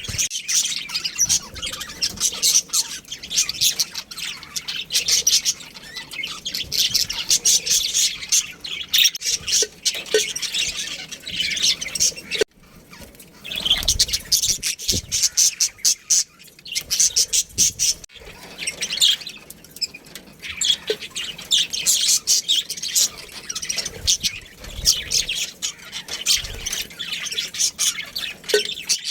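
Many small birds chirping and squawking together in a dense, continuous chatter, broken by brief lulls about twelve and eighteen seconds in.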